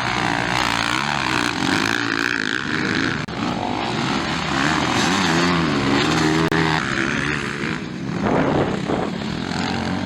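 Motocross motorcycle engines racing on track, revving up and down with the pitch rising and falling as the riders work the throttle and shift gears.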